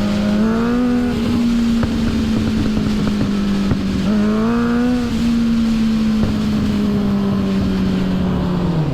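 2006 Suzuki GSX-R750's inline-four engine running at a steady cruise under wind rush. Its pitch rises slightly twice, about half a second in and about four seconds in, then drops near the end as the throttle closes.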